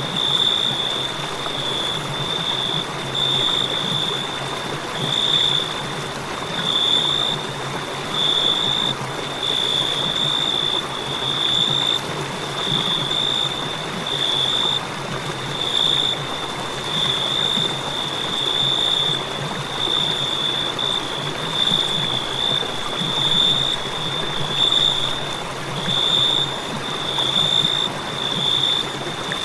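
Crickets chirping: one continuous high-pitched trill that swells and fades in pulses every second or two, over a steady soft hiss.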